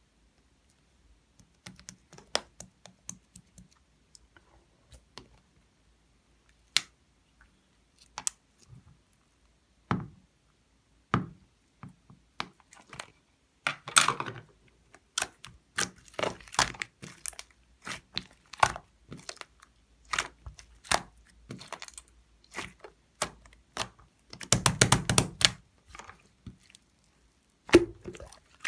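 Slime being squeezed and pressed by hand, making irregular sharp clicks and popping crackles as trapped air bursts. The crackles grow denser after the first few seconds, with a busy run of pops about two thirds of the way through.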